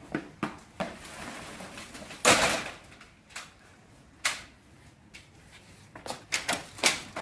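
Irregular sharp clicks and knocks, several close together near the end, with a louder rustling burst a little over two seconds in.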